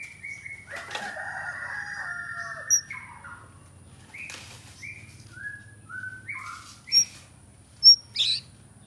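White-rumped shama singing a varied song mixed with mimicked calls of other birds: a run of short whistled notes, a long buzzy phrase, then spaced whistles and a few sharp, loud high notes near the end.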